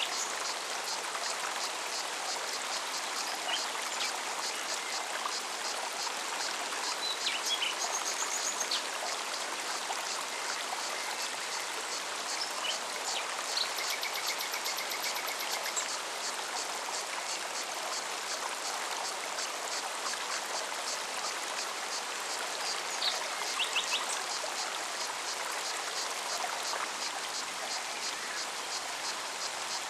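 Mountain forest stream running steadily over rocks, with an insect chirping in a fast, even rhythm throughout and a few short bird calls now and then.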